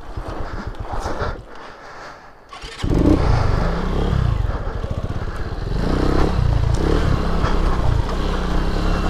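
Lifan KP Mini 150's small single-cylinder engine: it runs low and drops almost quiet, then about three seconds in comes in loud and revs up, rising and falling under throttle. The engine has been reluctant to idle and bogs.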